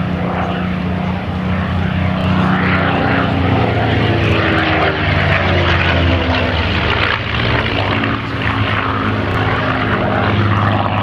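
Supermarine Spitfire's V12 piston engine in a display flypast. The engine note drops in pitch through the middle as the aircraft passes, then settles into a steady low drone.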